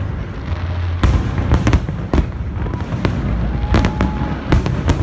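Aerial fireworks shells bursting in a rapid series of booms and cracks, about eight in a few seconds, over a continuous low rumble of the display.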